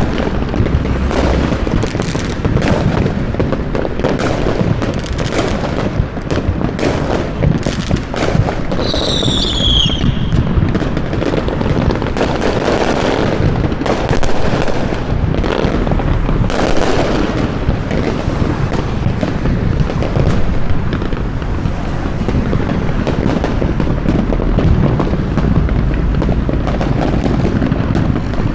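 Many fireworks going off at once in a constant barrage of booms and cracks, over a steady low rumble. About nine seconds in, a whistling firework gives a falling whistle.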